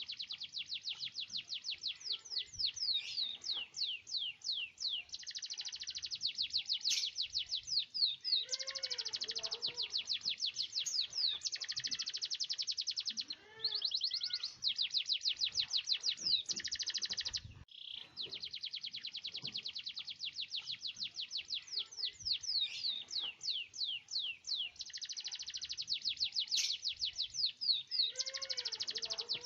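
Domestic canary singing long, nearly unbroken rolling trills of rapid high notes, with sharp piercing phrases mixed in, as a strongly singing bird does in full song.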